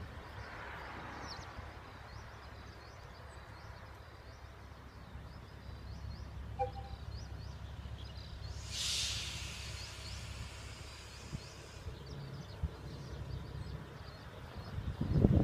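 Outdoor ambience with a steady low rumble and a string of short, high chirps repeating throughout. A brief hiss comes about nine seconds in.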